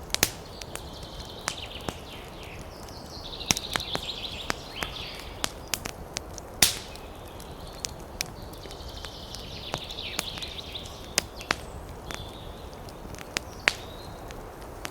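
Wood fire burning in a fireplace, crackling with irregular sharp pops and snaps, the loudest about six and a half seconds in, over a steady low rush. Several stretches of hissing rise and fade between the pops.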